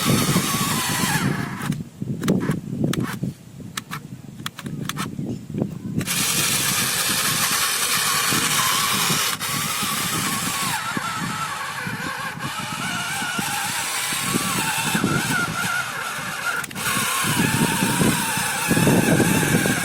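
John Deere tractor engine running under way, dropping to a quieter, uneven sound for a few seconds early on, then running steadily again.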